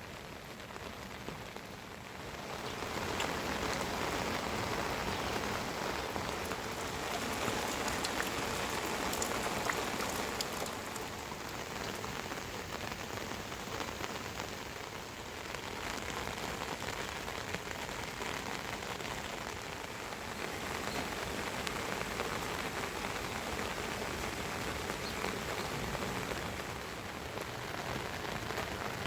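Rain falling steadily, growing louder about two seconds in.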